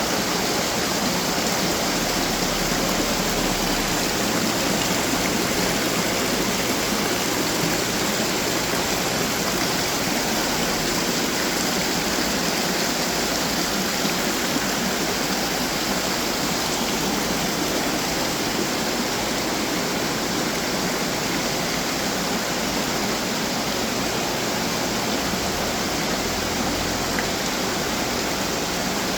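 Running water fountains: a steady, even rush of splashing, falling water.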